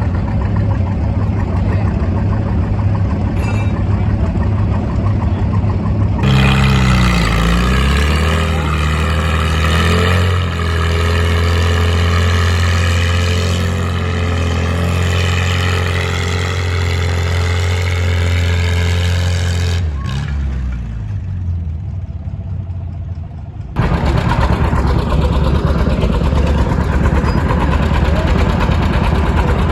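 Pulling tractor's engine at full throttle: it revs up, holds a high steady pitch for about ten seconds, then drops back. A low engine rumble comes before and after.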